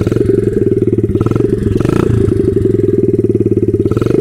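Single-cylinder four-stroke engine of a 72cc Honda-clone pit bike running steadily at idle. It runs well, sounding pretty good on its new carburetor, spark plug and fresh oil.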